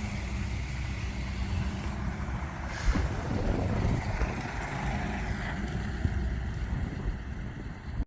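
Heavy lorry's diesel engine running steadily as the truck arrives, with a brief hiss about three seconds in.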